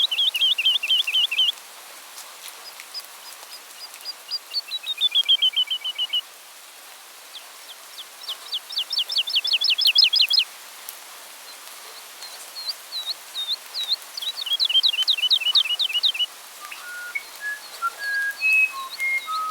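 A songbird singing rapid trills: each phrase is a quick run of high down-slurred notes lasting two to three seconds, repeated after short pauses. Near the end, separate clear whistled notes at varying, lower pitches join in.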